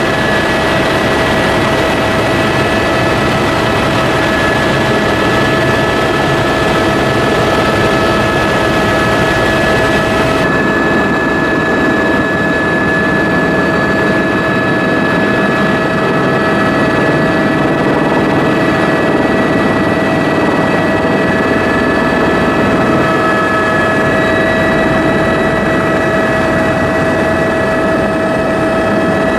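Steady, loud vehicle engine and travel noise with a few steady whining tones over it; the hiss in the top range drops away about ten seconds in.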